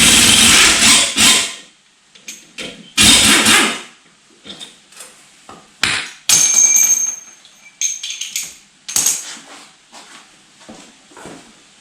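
Tools working on the metal transom mount bracketry during removal: two loud bursts of rapid hammering, one at the start and one about three seconds in, then scattered clinks and a short high metallic squeal.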